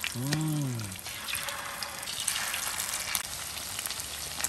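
Fish frying in hot oil, a steady sizzle with scattered crackles and pops. A person gives a short hum in the first second.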